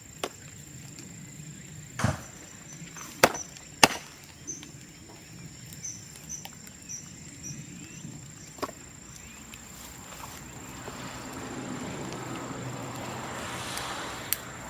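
Cut bamboo burning in an open bonfire, with sharp pops and cracks a few seconds apart over a low crackle. A broader rushing noise builds over the last few seconds.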